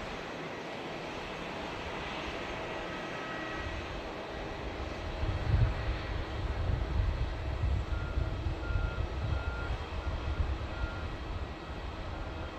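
Jet airliner engine noise, a steady wide rumble that grows deeper and stronger about five seconds in.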